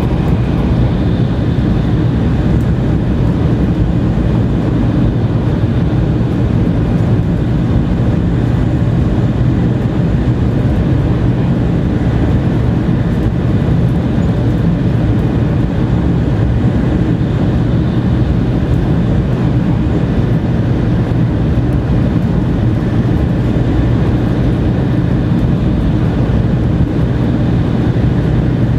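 Running noise inside a 700 series Shinkansen passenger car travelling through a tunnel: a loud, steady low rumble that does not change.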